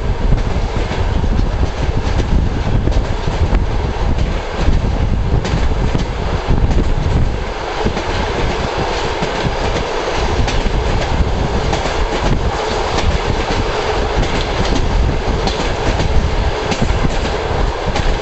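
Russian passenger train No. 96 running at speed: a steady loud rumble with the clickety-clack of wheels passing over rail joints.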